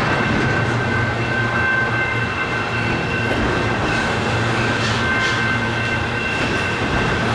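Canadian Pacific freight train rolling past close by: a steady, loud rumble of cars on the rails, with a thin steady high tone over it.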